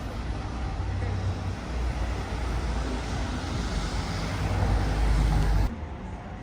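Street traffic noise with a vehicle engine rumbling nearby, growing a little louder, then cutting off abruptly near the end.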